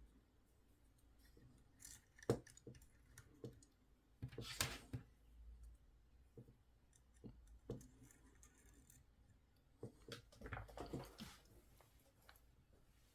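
Faint, scattered clicks and rattles of small plastic toy parts being handled, with two short bursts of fiddling about a third of the way in and again near the end.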